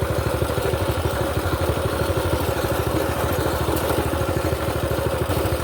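Mini bike's small single-cylinder engine running steadily, with a rapid even firing beat.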